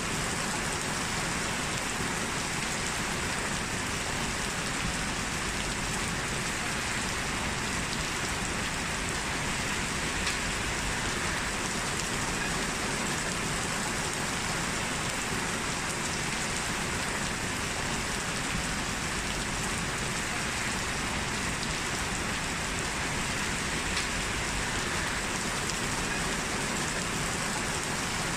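Steady rain falling and pattering on a surface, an even hiss with a few sharper drops now and then.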